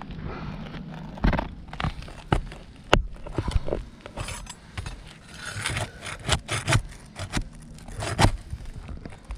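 Asphalt shingles being worked loose with a tool to get at the roofing nails beneath: scraping and rubbing with repeated sharp knocks, the loudest about three seconds in.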